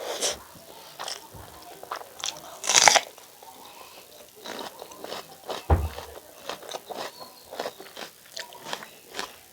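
Close-up eating sounds: crunchy bites and chewing as a series of sharp crackles, with one loud crunch about three seconds in and a dull thump a little before the middle of the second half.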